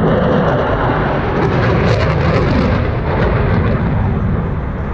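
Fast military jet flying a display, its engine noise a loud, continuous deep rumble with some crackle about two seconds in.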